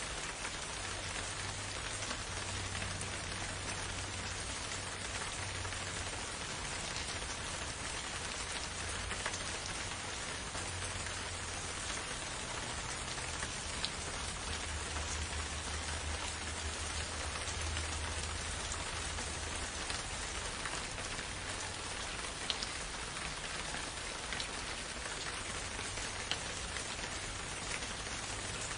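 Steady rain falling, an even hiss with a few louder single drop taps standing out now and then.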